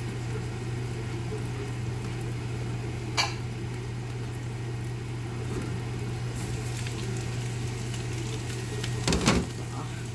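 Ground beef and vegetables sizzling in a pot over a steady low hum. A single sharp clink comes about three seconds in, and a brief clatter of a utensil against the pot comes near the end.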